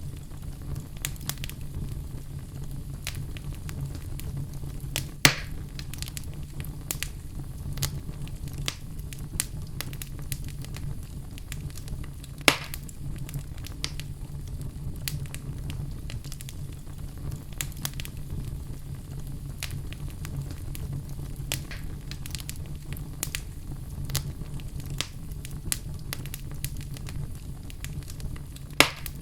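Wood fire crackling: a steady low rumble of flames with constant small crackles, and three louder sharp pops, about five seconds in, about twelve seconds in and near the end.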